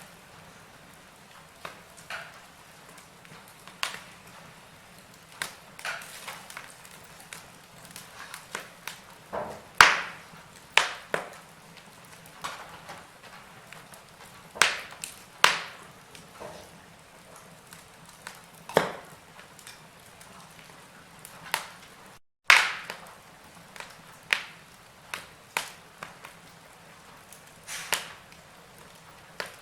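Wood fire burning in a fireplace, crackling with irregular sharp pops over a faint hiss; a few pops stand out louder. The sound cuts out for a split second about two-thirds of the way through.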